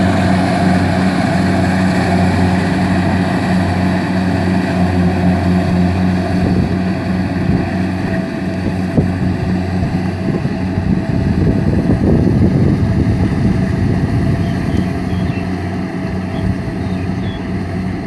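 Kubota DC-70 combine harvester's diesel engine running steadily, a constant low hum that swells slightly about twelve seconds in and eases off near the end.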